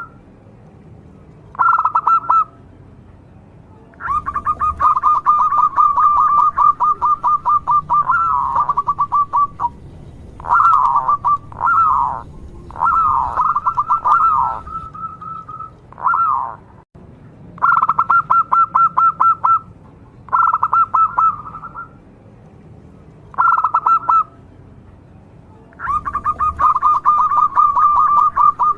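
Local zebra dove (perkutut) calling persistently: phrases of rapid, staccato trilled coos, some brief and some running for several seconds, with short pauses between.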